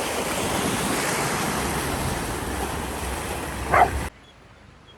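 Steady rush of wind and water on a boat out on the water, with wind buffeting the microphone and a short high squeak just before it cuts off suddenly about four seconds in. A much quieter background with faint high chirps follows.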